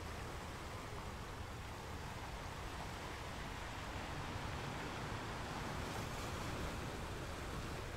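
Sea waves breaking and washing up onto a sandy beach: a steady surf noise without pauses.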